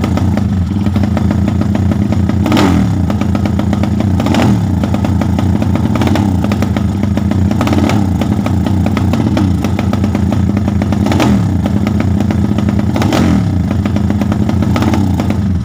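Kawasaki KLX 150S's fuel-injected single-cylinder four-stroke running through an aftermarket slip-on exhaust, with a short blip or pop roughly every two seconds.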